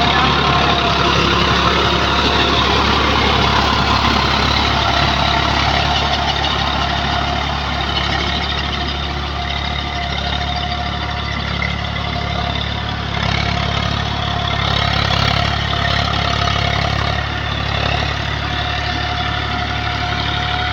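Tractor's diesel engine running steadily, a little louder again a little after halfway.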